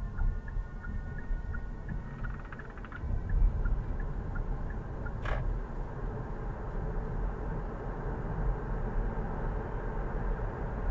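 Car driving, heard from inside the cabin: a steady low rumble of engine and road noise, with a light regular ticking over the first few seconds and a single sharp click about five seconds in.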